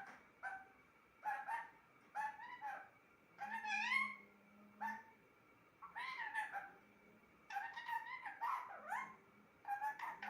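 Pet parrot calling: a string of short, pitched, bending calls about one a second, with a longer rising call about four seconds in.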